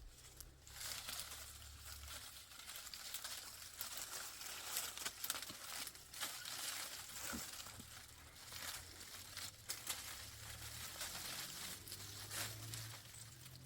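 Dry brush rustling and crackling as it is handled, with many small irregular snaps and clicks.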